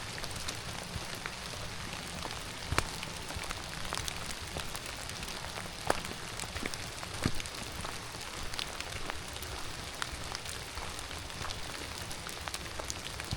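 Steady rain falling, an even hiss dotted with many sharp drop ticks close by, a few of them louder.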